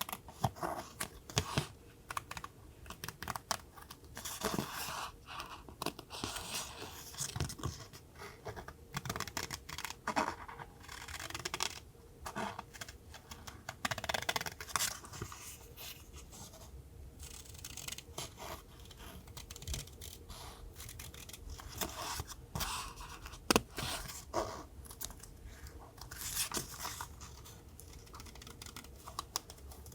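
Paper being handled for a collage: irregular rustling, scratching and tearing of paper, with many small sharp clicks and one louder tap a little past the middle.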